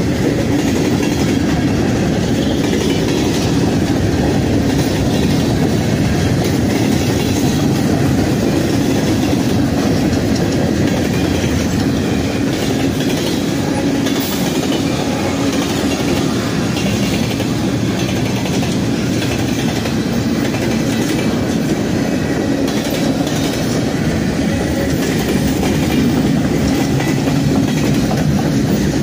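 Cars of a Norfolk Southern mixed freight train rolling past, their steel wheels running over the rails in a steady, unbroken rumble with rapid fine clicking.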